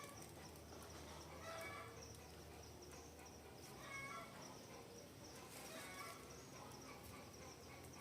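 Forest birds calling faintly: one bird repeats a short call about every two seconds, over steady high twittering.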